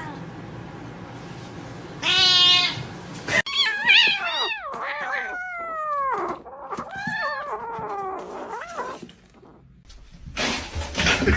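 Domestic cats meowing and yowling. About two seconds in comes a wavering yowl lasting about a second. It is followed by a run of meows that fall in pitch, and a louder, noisier stretch starts near the end.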